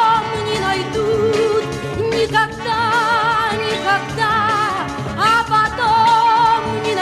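Soviet 1970s pop song recording near its end: long held melodic notes with vibrato over a steady accompaniment, with singing in the mix.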